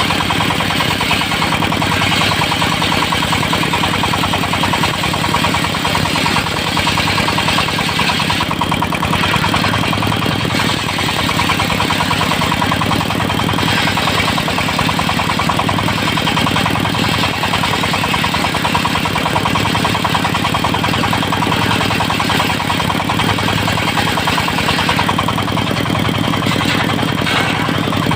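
Engine of a mobile circular-saw sawmill running steadily, with a fine, even pulse and a high hiss that rises and falls a few times.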